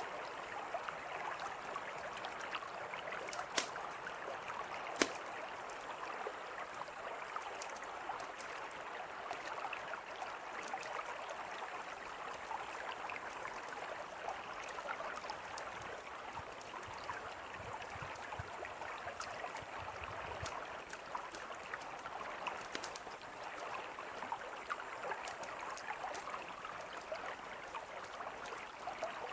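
A mountain river flowing steadily, with a campfire crackling over it in small scattered clicks and two sharper pops about three and a half and five seconds in.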